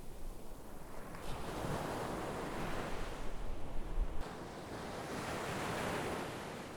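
Sea waves breaking and washing on the shore, the surf swelling and easing twice, with some wind on the microphone.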